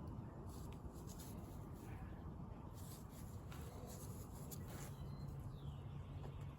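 Light, irregular scratching and handling noises of hand work on a small part, over a steady low rumble of wind on the microphone.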